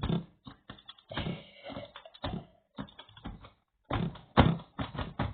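Irregular taps, clicks and knocks of small objects being fiddled with and handled, in quick uneven runs broken by short pauses.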